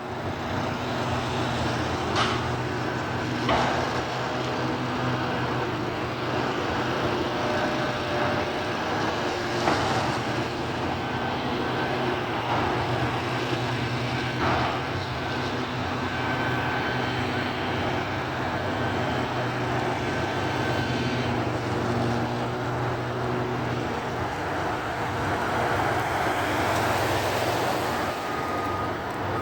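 Front-loader garbage truck's engine running steadily as it lifts a dumpster with its forks, with a few short knocks from the lift.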